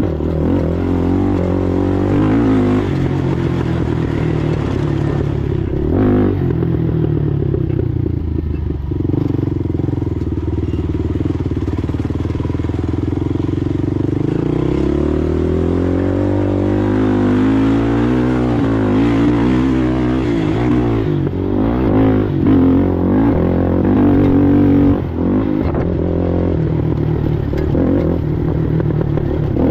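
Racing ATV engine running hard, its pitch rising and falling over and over as the throttle opens and closes, with a long climb in revs about halfway through.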